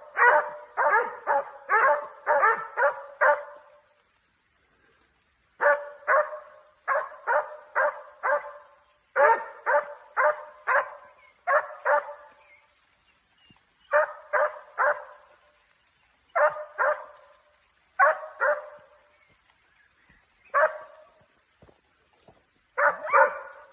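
Dogs barking in quick runs of several barks, with short pauses between the runs.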